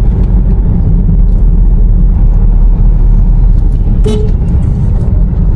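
Car driving on a road, a steady low rumble of engine and road noise heard from inside the vehicle. A short horn toot sounds about four seconds in.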